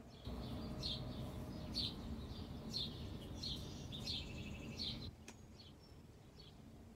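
Songbird chirping over and over, a short high note about once a second, with a denser trilling passage around four seconds in. Underneath runs a low, rumbling background noise that cuts off about five seconds in, followed by a single click.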